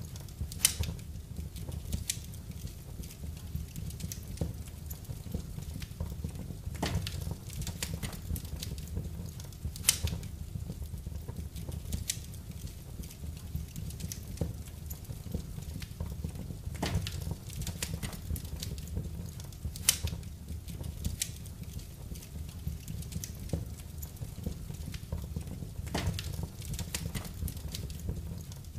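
Fireplace fire crackling, with sharp pops every few seconds over a low steady rumble of the flames.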